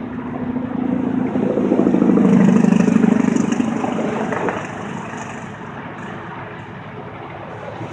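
A motor vehicle's engine running close by, its sound building to a peak about three seconds in and then fading away, as a vehicle passing.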